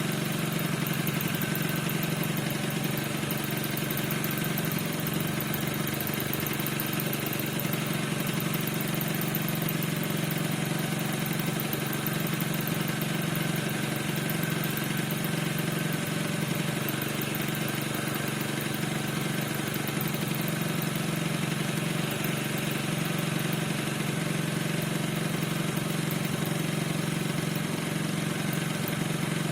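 Piaggio NRG 50 scooter's two-stroke engine idling steadily at an even speed. The owner reports that the engine squeaks and doesn't know the cause.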